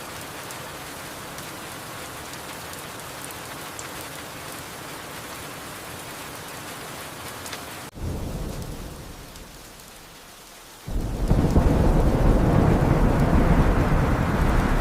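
Steady rain falling. About halfway through, a rumble of thunder breaks in and fades away. Near the end, a much louder, deeper roll of thunder and heavy rain takes over.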